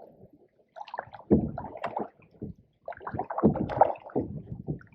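Canoe paddle working the pond water: splashing and gurgling in two stretches of strokes.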